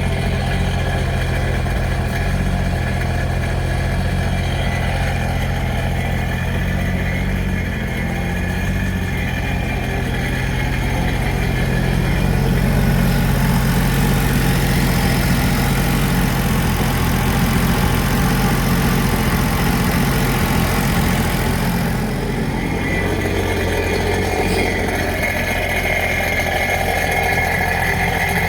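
Sea-Doo GTX personal watercraft engine running steadily, growing louder and noisier for about ten seconds in the middle before settling back.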